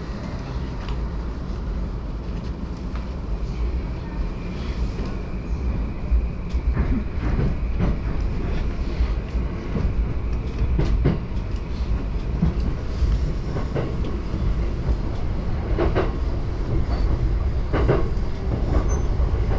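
Yamanote Line electric commuter train running, heard inside the carriage: a steady low rumble that grows gradually louder as it picks up speed, with the wheels clicking over rail joints and a faint steady high tone.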